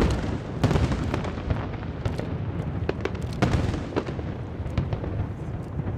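Aerial fireworks shells bursting in quick, irregular succession: a string of sharp bangs over a continuous low rumble.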